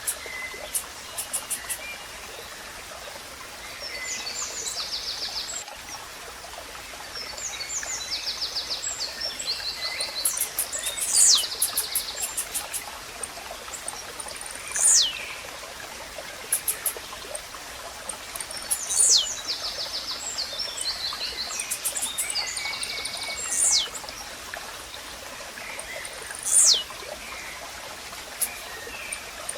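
Blue-black grassquit (tizil) giving its short, sharp song note about every four seconds, each a quick downward sweep, over the steady sound of running stream water. Rapid high trills fill the gaps between the notes.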